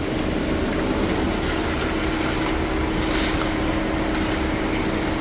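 Car engine running steadily with a low rumble and a constant hum, heard from inside the cabin.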